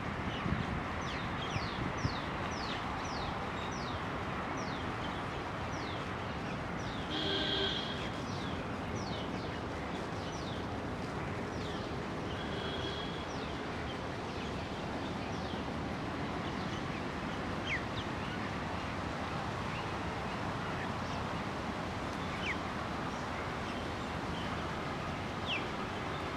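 Birds calling: a quick series of short, sharp high-pitched calls for about the first nine seconds, a louder held call about seven seconds in, then scattered single calls. Under them runs a steady background rumble of noise.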